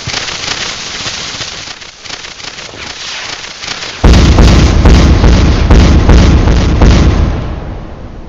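A consumer firework going off: crackling and fizzing for the first few seconds, then about four seconds in a sudden, very loud run of rapid bangs and booms lasting around three seconds before fading away.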